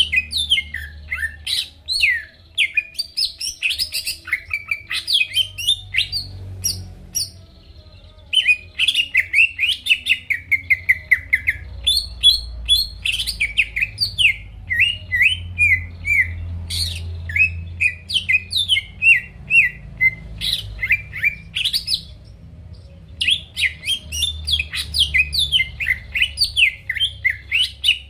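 Cucak ijo (green leafbird) singing a loud, fast, varied song of quick sweeping whistles and chattering notes, with two brief pauses, about a quarter and three-quarters of the way through. A faint low hum runs underneath.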